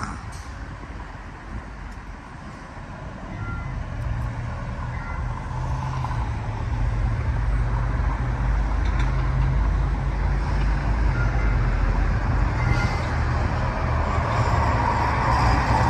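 Street traffic with a heavy vehicle's low rumble that builds from a few seconds in and grows louder toward the end.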